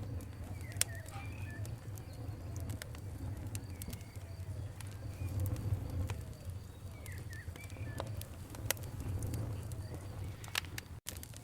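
Campfire crackling, with scattered sharp pops over a steady low rumble of the burning fire, while birds call in the background. The sound cuts out for an instant near the end.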